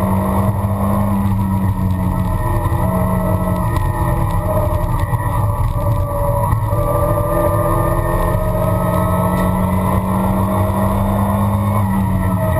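1973 Toyota Celica's engine running hard under load, heard from inside the cabin. Its pitch holds steady, with brief dips about two seconds in, midway and near the end.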